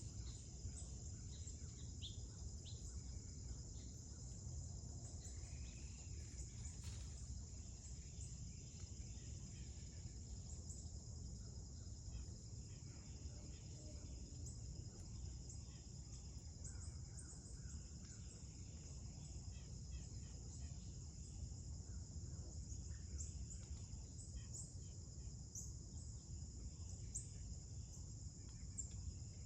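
Steady, high insect chorus of crickets, trilling without a break over low outdoor background noise, with a few faint short chirps scattered through.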